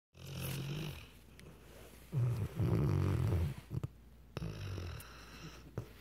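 Weimaraner dog snoring: low snores in separate breaths, the loudest and longest about two seconds in.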